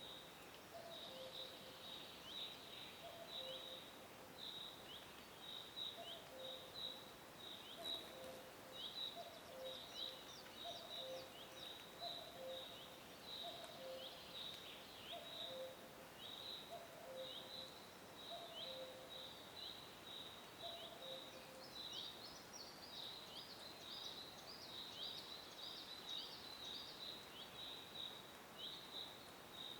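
Small birds chirping in quick, short, high notes, several a second, without a break. Beneath them a faint low two-note call repeats about every second and a half, stopping about two-thirds of the way through.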